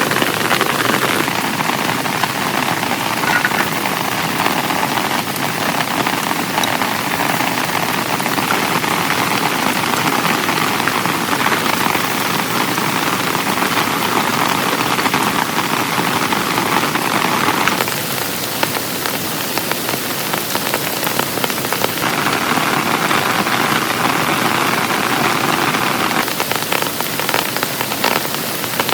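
Heavy rain pouring steadily, easing slightly for a few seconds about two-thirds of the way through.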